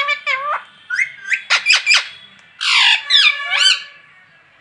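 Pet parrot chirping and whistling in a quick run of short calls that slide up and down in pitch. About two and a half seconds in comes one harsh squawk, followed by a few rising-and-falling whistles.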